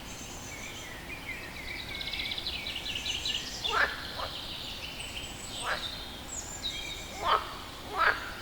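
A frog calling, about five short loud calls that each slide quickly downward in pitch, mostly in the second half. Birds chirp and trill in the background through the first half.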